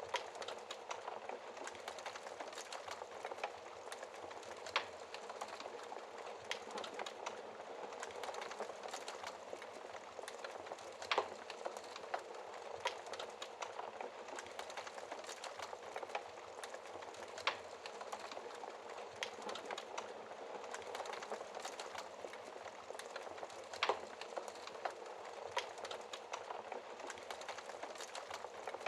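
Wood fire burning in a fireplace: a steady hiss and flutter of flames with frequent small crackles and, every few seconds, a louder pop from the logs.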